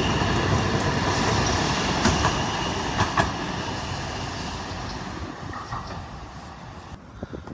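Two coupled Tyne and Wear Metrocars running away, the rumble and a high steady whine fading out. Wheels clack over rail joints in two pairs about two and three seconds in.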